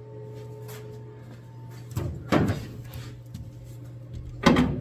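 Two short clunks, about two seconds apart, from hands-on work on a 1968 Mustang's hood and its factory hinges, over a steady low hum.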